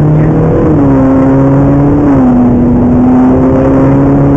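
Ferrari 458 Italia's naturally aspirated V8 running loud under power, heard from inside the cabin. Its pitch dips slightly about a second in and again about two seconds in, then holds steady.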